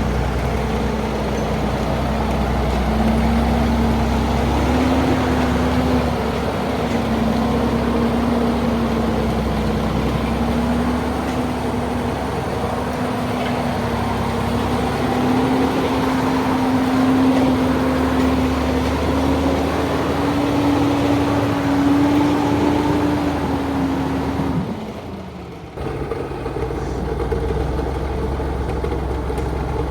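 1975 truck's engine running steadily under way, its note slowly rising. About 25 seconds in the note falls away and the sound dips for about a second, then the engine picks up again.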